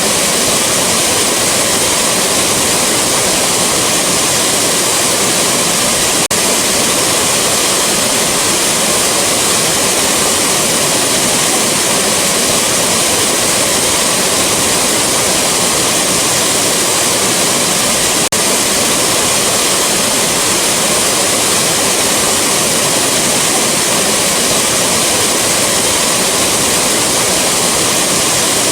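Rushing waterfall: a steady, dense roar of falling water. Two very brief dips break it, about six seconds in and again about twelve seconds later, where the recording loops.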